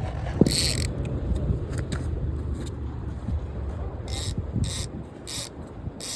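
Fishing reel being cranked to bring in a hooked fish, its gears whirring and clicking, with short high rasps several times in the second half. Wind and surf rumble underneath.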